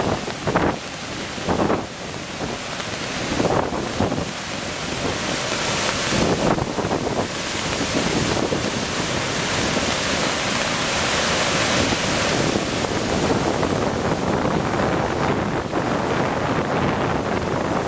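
Three-tiered waterfall in torrent, a dense steady rush of heavy water. Gusts of wind buffet the microphone in the first few seconds.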